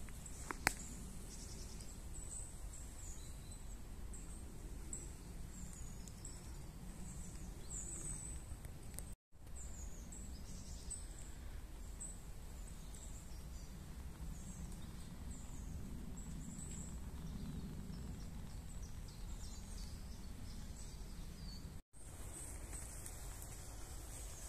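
Woodland ambience: small birds chirping with short, high calls throughout, over a steady low rumble. A single sharp click comes just under a second in, and the sound drops out for an instant twice.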